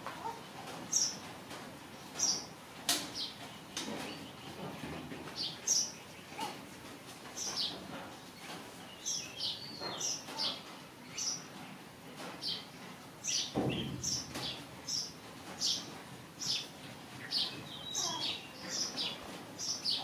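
Birds chirping over and over in the background, short high chirps one or two a second, with a brief low rumble about two-thirds of the way through.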